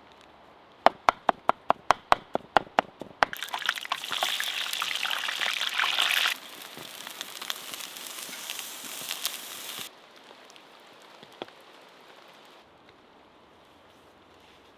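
A quick run of about a dozen sharp knocks, about five a second. Then food sizzles loudly on a hot surface over the fire, and the sizzle drops to a softer hiss with crackles before cutting off. Steady rain patters underneath.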